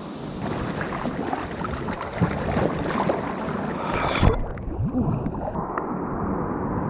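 Water splashing and gurgling close to the microphone over a steady rush of falling water. About four seconds in the higher sounds drop away suddenly and it turns muffled.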